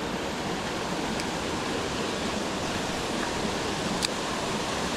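Steady rush of a mountain stream or small waterfall, with one short click about four seconds in.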